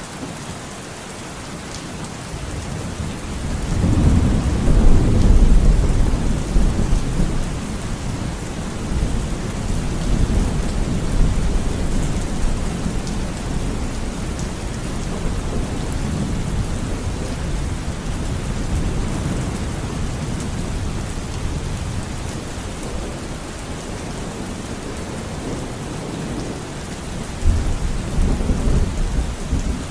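Steady rain with a long roll of thunder that builds about four seconds in, peaks, and dies away slowly. Another rumble of thunder starts near the end.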